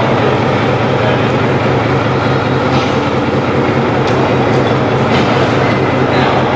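Marshall tractor engine running steadily, a loud even mechanical noise with a few faint ticks over it.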